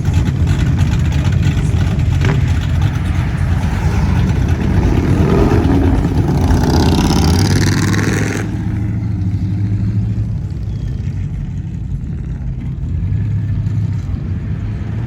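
Classic car engines running close by: a loud engine revving up, swelling about six seconds in and cutting off sharply a couple of seconds later, leaving a steady low engine rumble.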